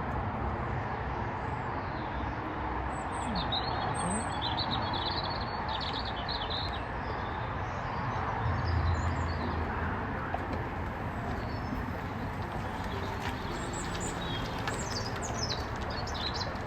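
Budgerigars chirping in two short spells, a few seconds in and again near the end, over a steady rushing background noise.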